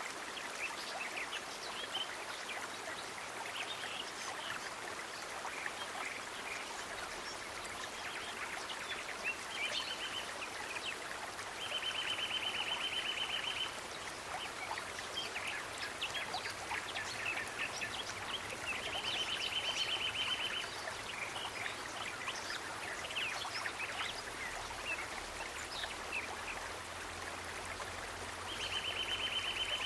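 Water running steadily, like a stream, under many short high bird chirps. A rapid trill of about two seconds recurs several times.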